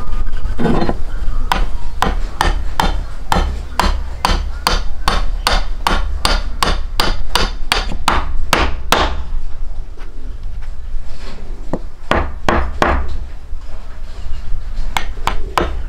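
A steady run of sharp blows, about three a second, stopping about nine seconds in; a few more single blows follow later, over a low rumble.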